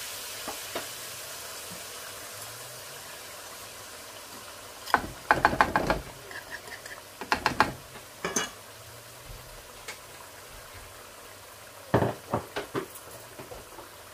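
Tomato-onion masala sizzling steadily in a wok while yogurt is spooned in from a bowl, with clusters of knocks and scrapes from the spoon against the bowl and pan about a third of the way in, again shortly after, and near the end.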